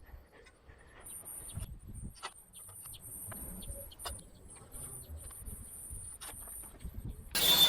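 Scattered light taps and clicks from hand work on sheet steel, with faint high chirping birds in the background. Near the end a loud, harsh rasping noise starts abruptly.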